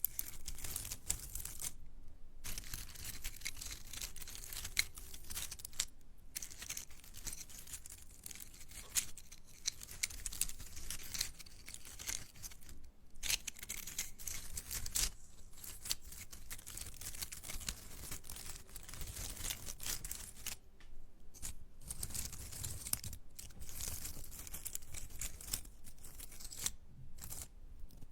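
Dried plant material crackling and rustling close against an ASMR microphone, a dense run of crisp small crackles with a few brief pauses.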